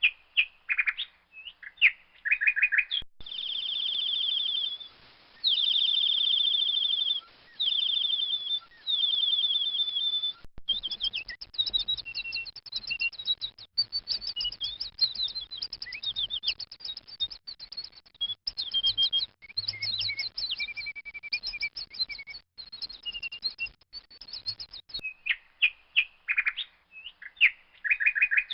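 A baby bird chirping: four rapid trilled runs of high chirps from about three to ten seconds in, then a busy stream of short high chirps and calls.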